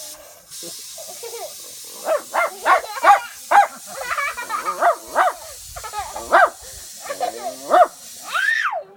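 A person's voice imitating a dog: about a dozen short, high yaps that drop in pitch, ending in one longer call that rises and falls.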